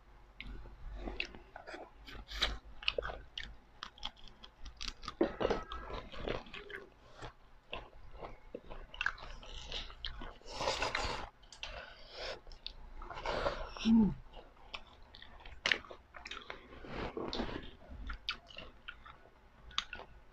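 Chewing and crunching of food, many small sharp crunches, with a longer slurp of soup from a spoon about ten seconds in.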